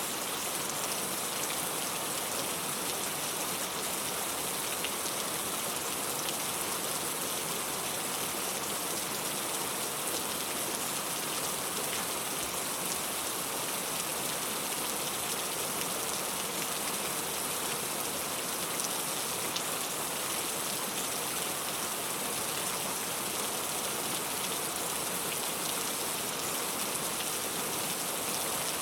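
Steady rain falling: a dense, even hiss of drops with scattered faint ticks of individual drops.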